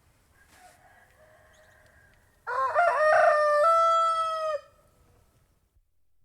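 Domestic rooster crowing: a faint, distant cock-a-doodle-doo, then about two and a half seconds in a loud crow that climbs and then holds a long, steady final note for about two seconds.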